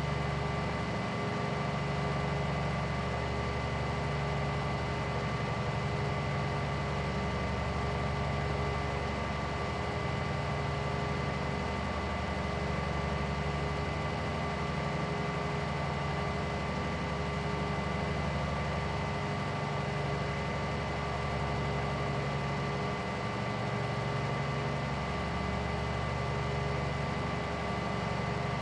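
Vehicle engine idling steadily: a low rumble with a constant hum and whine above it.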